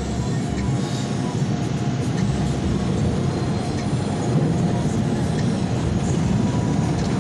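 Automatic conveyor car wash working over the car, heard from inside the cabin: a steady rumble and rush of water and machinery against the body.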